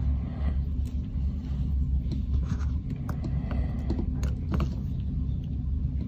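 A steady low rumble in the background, with a run of small sharp clicks from about two to five seconds in as pliers and a metal axle pin with toy wheels are handled.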